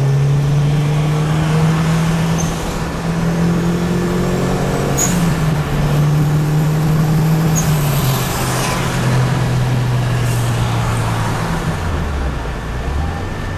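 Car engine heard from inside the cabin under steady load, over road and wind noise. Its pitch steps a couple of times and then drops and wavers lower near the end.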